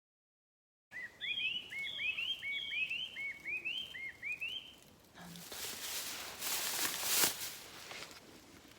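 A bird calling a quick series of about seven short, rising chirps, then a few seconds of rustling noise.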